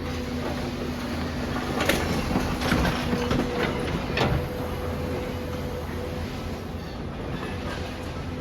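Demolition excavator running with a steady engine drone and hum, with a run of knocks and crunches of breaking material between about two and four and a half seconds in.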